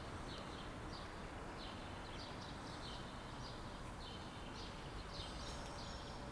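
A small bird chirping, a string of short high notes roughly one or two a second, over a steady outdoor background hiss.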